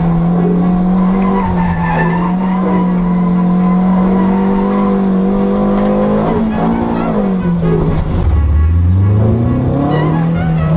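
Toyota AE86's stock 3T-C four-cylinder engine on side-draft OER carburetors, heard from inside the cabin, held at high revs through a drift with the tyres squealing. The revs dip and recover about six and a half seconds in, drop sharply near eight seconds, then climb again.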